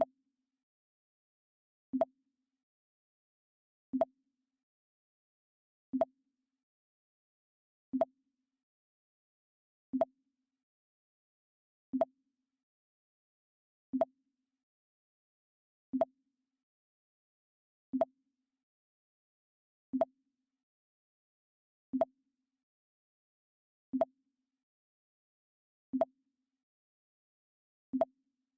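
Mac OS X 'Pong' alert sound effect: a short, low blip repeated at an even pace, once every two seconds.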